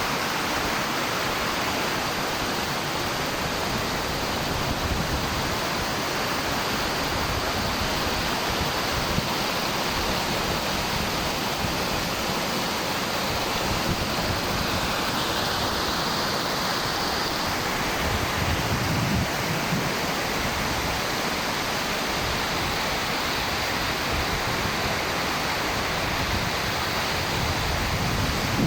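Steady rushing of spring water cascading over rocks, like a small waterfall.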